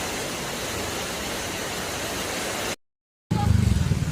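Steady hiss of heavy rain, cut off abruptly about three seconds in. After a short silence a low rumble of traffic starts.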